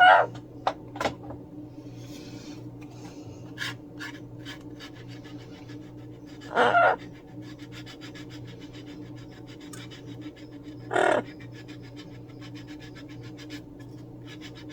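A pet parrot giving three short squawks, the first right at the start and the others about six and four seconds apart, over a faint, rapid scratching.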